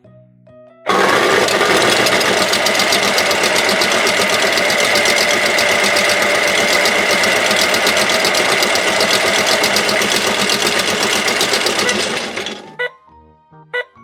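Toy washing machine's electronic sound effect played through its small speaker: the combined-cycle sound, a loud, fast, buzzing machine noise with a steady high whine lasting about eleven seconds. It cuts off suddenly near the end, and a short tune of separate beeping notes follows.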